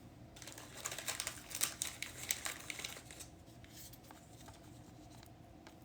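Light plastic crinkling and rustling with small clicks as a trading card is handled and slid against a plastic penny sleeve, busiest in the first three seconds then thinning to a few ticks.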